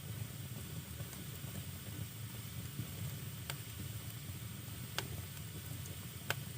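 Firewood burning in a fireplace: a steady low rush and hiss of the flames with a few sharp crackling pops, three of them in the second half, the loudest near the end.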